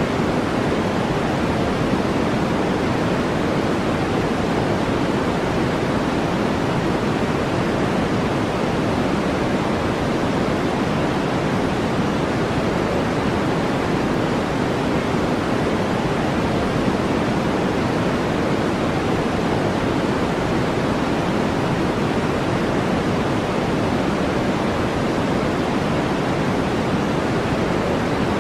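Steady synthetic brown noise: an even, unchanging hiss weighted toward the low end, with no breaks or events.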